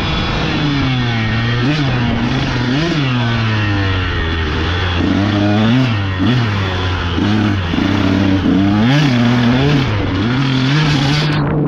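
Dirt bike engine running hard on a trail ride, its pitch rising and falling again and again as the throttle is opened and rolled off.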